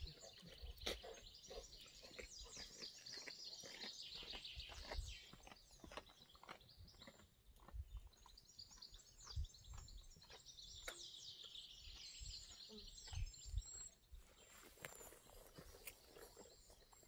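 Songbirds singing faintly: many short chirps and calls, with two long descending trills. Soft low thumps come now and then.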